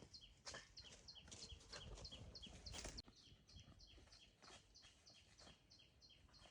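A faint, high chirp repeating steadily about four times a second. Scattered soft knocks and rustling during the first three seconds stop suddenly.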